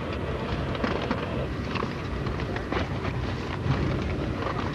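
Steady low rumble and running noise of an Amfleet passenger coach rolling along the track, heard from inside the car, with faint scattered clicks.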